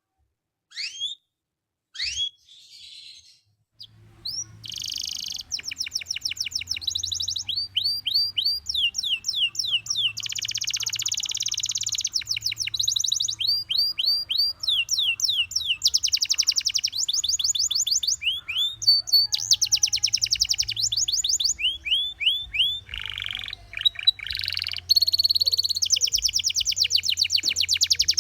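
Gloster canary singing: a few separate chirps, then from about four seconds in a continuous song of fast trills and rolling runs of rapidly repeated notes.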